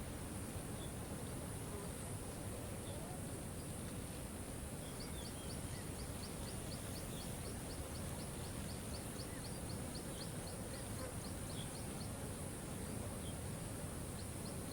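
Steady rush of a waterfall with a few faint scattered bird chirps. From about five seconds in until about eleven seconds, and again near the end, a high, rapid ticking call repeats about four times a second.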